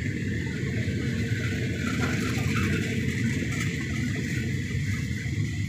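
State Railway of Thailand passenger coaches rolling past at low speed as the train departs, a steady rumble of steel wheels on the rails with a higher running hiss above it.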